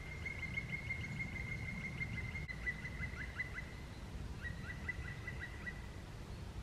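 A small songbird singing in the woods: a run of rapid repeated short notes, pausing briefly about four seconds in and then starting a second, shorter run. A steady low rumble lies underneath.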